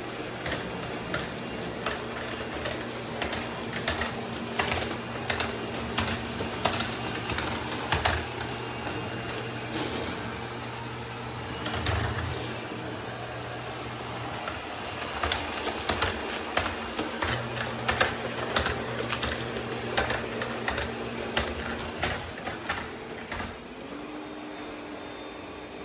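Ecovacs Deebot T50 Pro robot vacuum-mop system running: a steady motor hum with frequent clicking and rattling.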